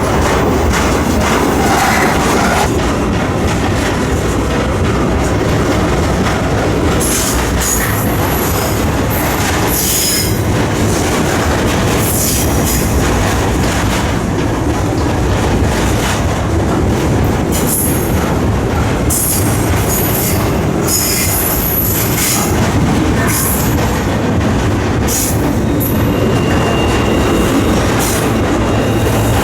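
Freight train rolling, heard from aboard a car: a steady loud rumble and rattle of wheels on the rails, with short high-pitched wheel squeals coming again and again from several seconds in.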